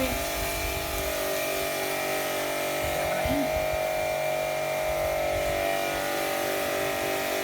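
A motor running steadily at a constant speed, giving an even, unchanging hum.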